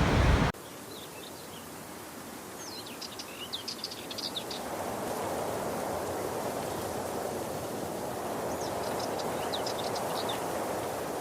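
Steady rushing of falling water, with small birds chirping in two short bursts: about two and a half seconds in and again near the end. A louder rushing noise cuts off abruptly half a second in, and the water noise swells slightly about four seconds in.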